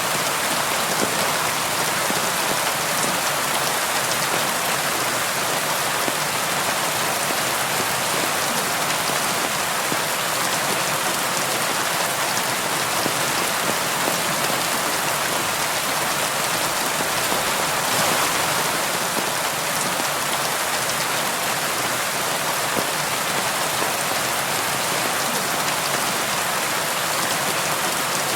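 Steady rain falling on window glass: an even hiss of rain with scattered drop ticks, swelling slightly for a moment about two-thirds of the way through.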